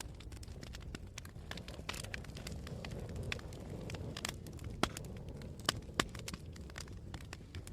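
Wood campfire burning, with a steady low rumble of flames and frequent irregular crackles and pops, a few sharper pops standing out near the second half.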